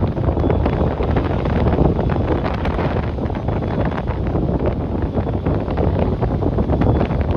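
Strong gusty wind buffeting the microphone: a heavy low rumble broken by rapid crackling flutters, with no let-up.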